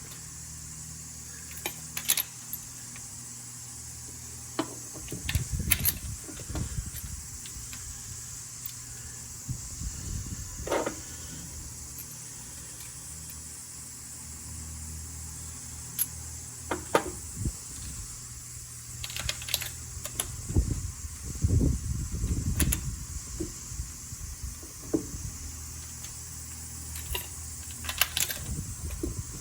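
Metal hand tools clinking and clicking at irregular intervals, with a few short clusters, over a steady low hum.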